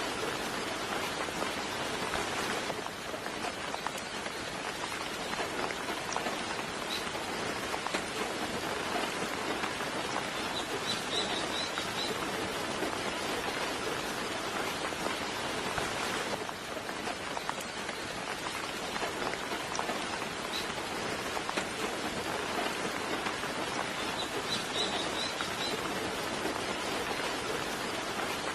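Soft, steady rain falling, a continuous even hiss. Brief high bird chirps come through in two short clusters, about eleven seconds in and again about twenty-five seconds in.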